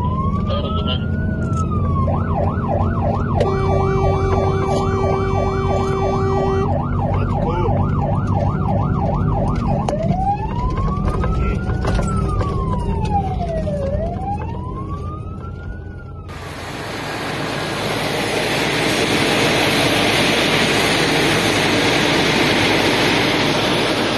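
Fire engine siren running under way, switching between a slow rising-and-falling wail and a fast yelp, with a horn held for about three seconds early on and the truck's engine rumbling underneath. About two-thirds of the way through it cuts abruptly to a loud, even rushing noise.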